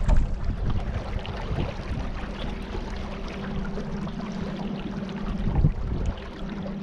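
Boat motor running steadily, a constant low hum, with wind buffeting the microphone and gusting louder near the start and again near the end.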